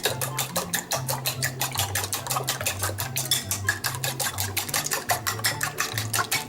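Raw eggs being beaten in a bowl: a utensil clicks quickly and evenly against the bowl, about seven strokes a second.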